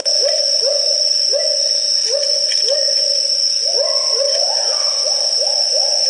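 Great argus pheasant calling: a run of short hoots that each slide upward, about three a second, over a steady high-pitched whine.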